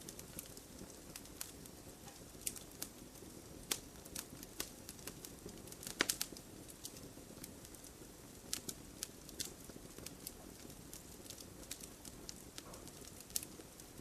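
Campfire crackling: irregular sharp pops and snaps of burning wood over a low steady rush of flame, with a quick cluster of louder pops about six seconds in.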